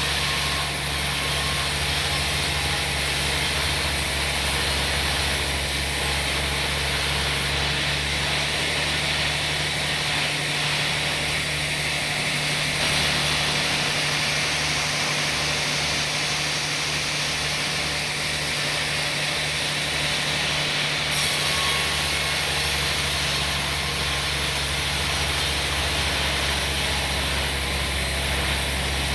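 Sawmill machinery running steadily: a low, even engine hum under a constant hiss.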